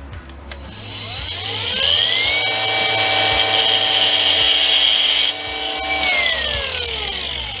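Grinder motor spinning up with a rising whine, then a harsh grinding hiss as a nut is held against the wheel for about three seconds to spark-test it. The grinding stops suddenly, and the motor winds down with a falling whine. The nut is one that a magnet won't stick to, being tested to see whether it is stainless steel.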